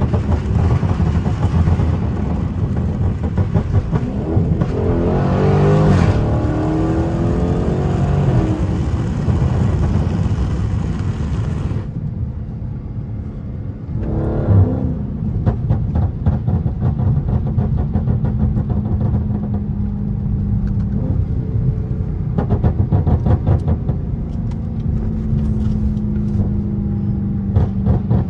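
Dodge Charger 392's 6.4-litre HEMI V8 running under load, its revs climbing and falling about five seconds in. Later come clusters of rapid crackles and pops from the exhaust, from a tune set up to pop on lift-off.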